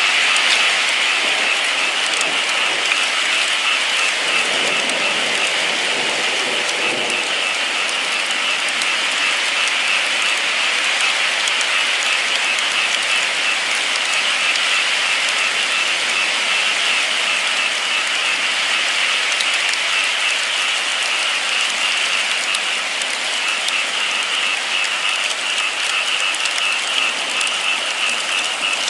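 Steady heavy rain falling, a dense continuous hiss of drops.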